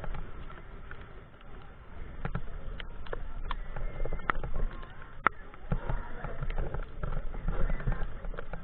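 Bicycle ridden on a wet road in heavy rain: a steady low rumble with irregular sharp clicks and knocks, several of them from about two seconds in.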